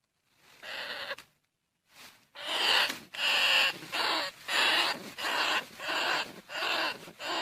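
Bandicoot rat calling: one call, a short pause, then a steady run of short calls at about one and a half a second.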